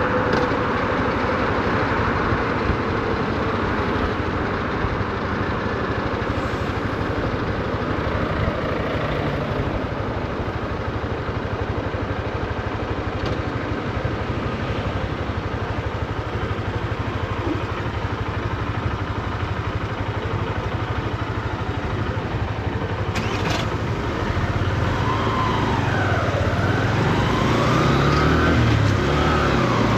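Honda CB125F's single-cylinder four-stroke engine running at low revs on the move, with steady road noise. About three-quarters of the way through it gets louder and its pitch dips and climbs twice, as the bike accelerates and shifts up a gear.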